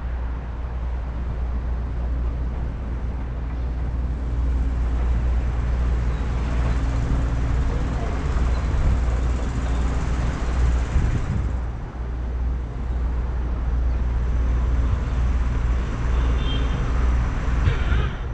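Steady low rumble of vehicle traffic under a broad hiss.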